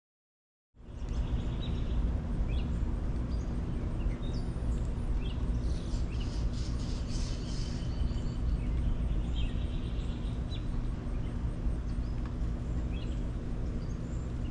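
Birds chirping outdoors over a steady low rumble of background noise that starts abruptly under a second in.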